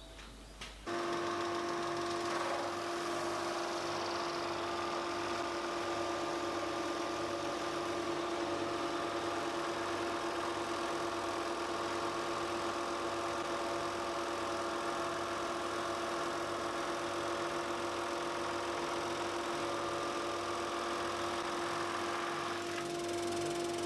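Sander running steadily with a constant hum, starting abruptly about a second in, as the resin is sanded off a chessboard.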